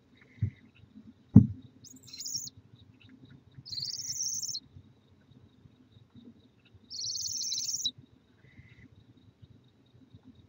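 Barn owls giving three rasping, hissing screeches, each just under a second long, spaced a couple of seconds apart. Two dull thumps come before them, the second one loud.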